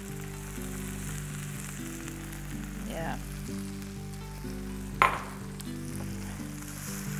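Poblano pepper strips and corn sizzling in a frying pan as they are stirred with a wooden spoon, with a brief sharp sound about five seconds in. Soft background music plays underneath.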